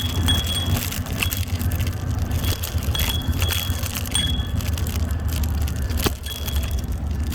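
Bird electric scooter rattling and rumbling over a gravel dirt road, with dense clattering from the deck and handlebars shaken by the rough surface. A faint high-pitched tone comes and goes, and there is one sharp knock about six seconds in.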